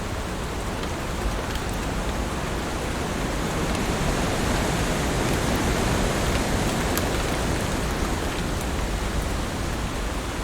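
Heavy rain falling as a steady, dense hiss, swelling slightly in the middle, with a few faint individual drop ticks.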